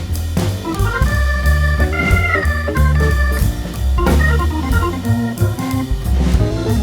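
Instrumental music with an organ sound carrying a melody of held notes over a heavy, steady bass.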